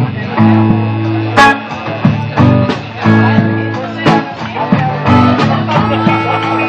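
Live blues-rock band playing, with two guitars over a drum kit and loud drum and cymbal hits cutting through.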